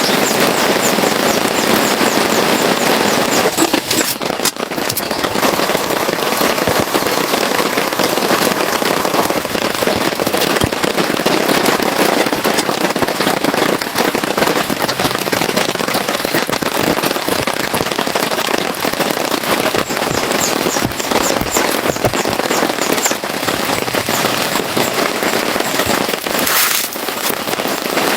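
Heavy rain falling steadily, a dense crackling patter of drops striking a surface.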